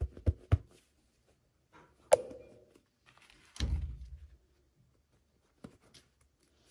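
Hands handling small plastic toy pieces and packaging. A few sharp clicks and taps come first, then a sharp knock with brief ringing about two seconds in, and a duller thump about a second and a half later, with light clicks near the end.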